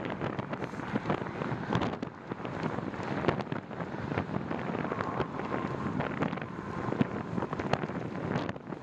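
Wind buffeting the microphone on a moving bicycle: a steady rough rumble broken by frequent short crackles.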